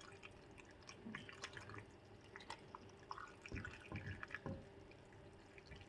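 Cooled vinegar brine being poured into a glass Ball jar packed with cucumber slices, heard as faint trickling and dripping.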